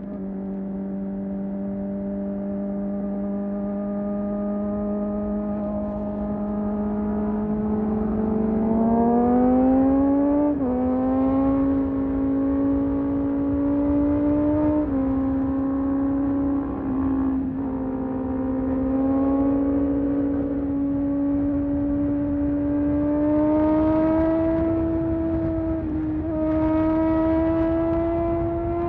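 Sport motorcycle engine heard while riding. It holds steady cruising revs, climbs under throttle about eight seconds in, then drops sharply on an upshift. It keeps running at a slightly higher steady pitch with a few brief dips.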